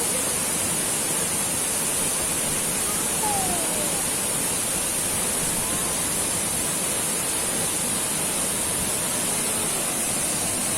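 A waterfall's steady rushing roar, close by.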